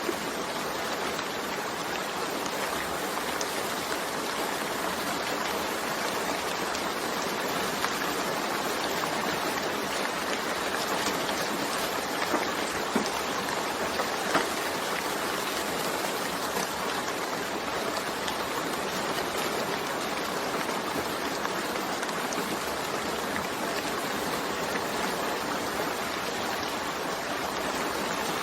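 Steady rain falling, an even hiss with a few sharper drop ticks near the middle.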